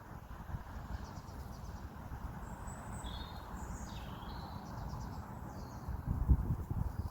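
Small birds chirping in short, high calls over a steady low background hum. Near the end there are brief low rumbles.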